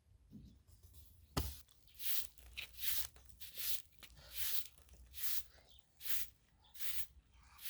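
A sharp knock, then a steady series of swishing, rubbing strokes, about one every 0.7 seconds.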